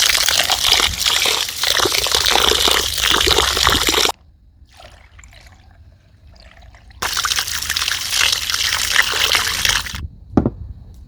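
Water running in a steady stream, stopping abruptly about four seconds in and starting again abruptly about three seconds later. Faint handling sounds fill the gap, and a single thump comes near the end.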